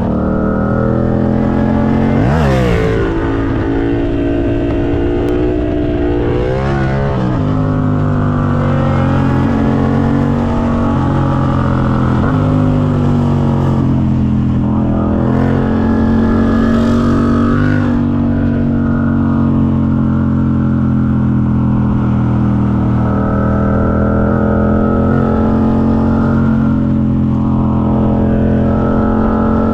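Motorcycle engine running steadily while riding, with a few quick revs that rise and fall in pitch, the sharpest about two and a half seconds in and others around seven and seventeen seconds in.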